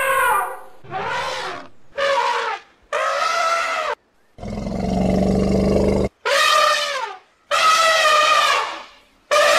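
A string of separate animal calls spliced one after another, each cut off abruptly: about seven loud, drawn-out pitched cries, several dropping in pitch at the end, with one lower, rougher call in the middle.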